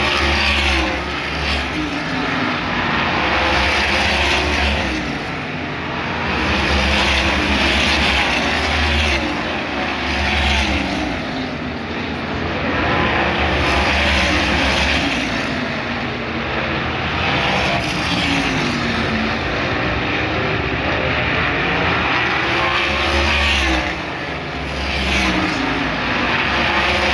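Race cars at speed on an oval, their engines rising and falling in pitch as they pass, in swells every few seconds, with a loud, continuous engine noise between the passes.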